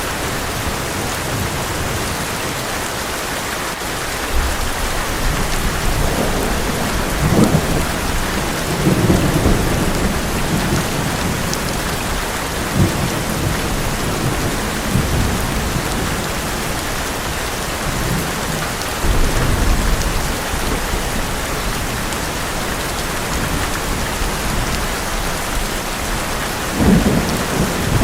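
Heavy rain beating steadily on an old metal roof, with thunder rumbling several times, loudest near the end.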